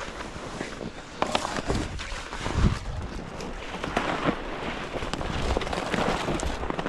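Footsteps crunching through snow at a walking pace, with clothing rustle and some wind on the microphone.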